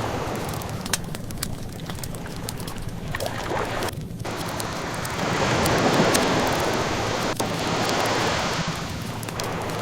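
Ocean waves washing ashore, one swell building about five seconds in and easing off toward the end, with scattered small crackles of a burning wood fire.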